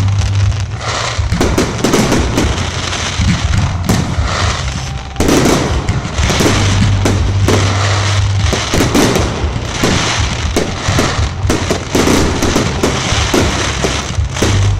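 Fireworks display: a dense, continuous run of bangs and crackles, with a sudden louder burst about five seconds in.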